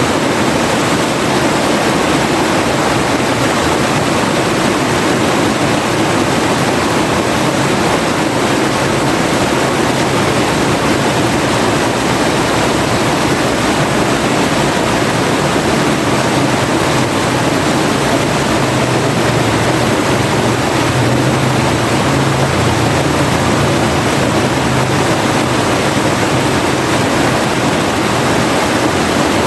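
Forest river flowing, a steady loud rush of water with no breaks.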